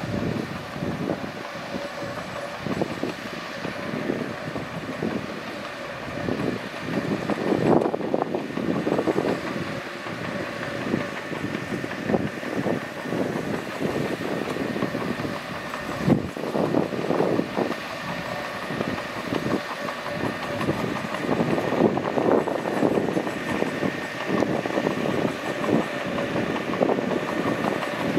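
Mitsubishi B2G crawler bulldozer's diesel engine running steadily while its steel tracks clank irregularly, with one sharp knock about sixteen seconds in.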